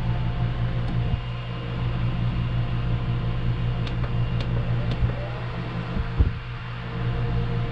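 12 V dual-head RV ceiling fan running steadily on its top speed, a constant motor hum and whir. A short knock about six seconds in.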